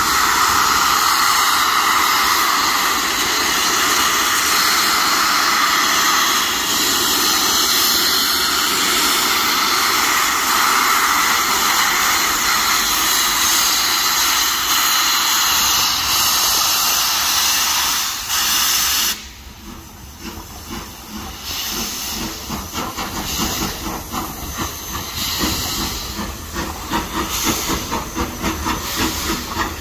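A train passing close by, making a loud, steady rushing hiss that cuts off suddenly about two-thirds of the way through. After that comes a quieter rumble with irregular clicking of wheels on rails, growing louder near the end.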